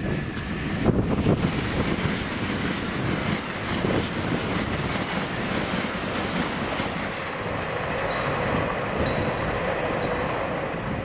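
A high-speed train passing on the main line: a steady rush of wheels on rail and air noise, lasting about eleven seconds.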